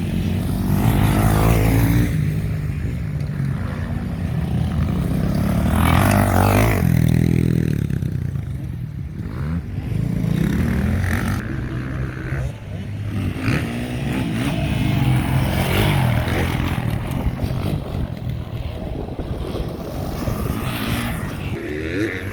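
Motocross bikes' engines revving hard as they pass, the pitch climbing and falling again several times as riders come through one after another.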